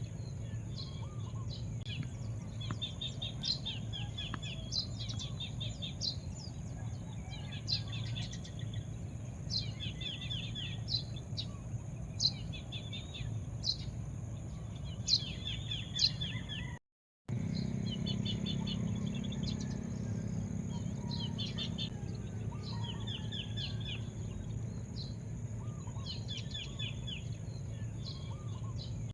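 Small birds chirping over and over in short quick phrases, roughly one a second, over a steady low outdoor rumble. The sound cuts out completely for about half a second partway through.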